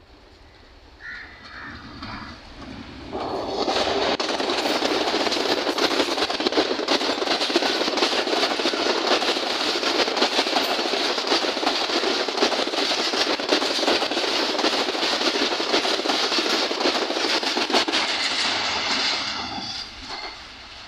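Diesel-hauled Pakistan Railways express passenger train passing close by at speed. Its approach builds over the first three seconds into a loud, steady rush of coaches with rapid wheel clicks over the rail joints, then fades away near the end.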